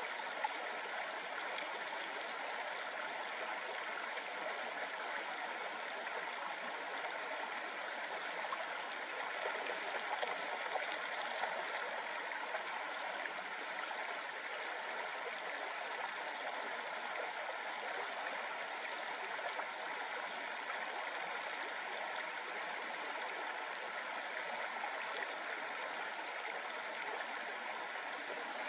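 A shallow river babbling steadily: an even, unbroken rush of running water.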